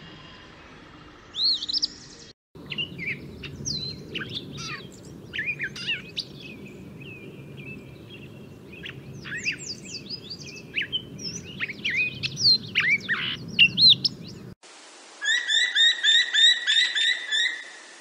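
A brief eastern phoebe song near the start, then a grey catbird singing a long run of varied, jumbled phrases. Near the end a grey jay gives a quick series of about seven repeated calls.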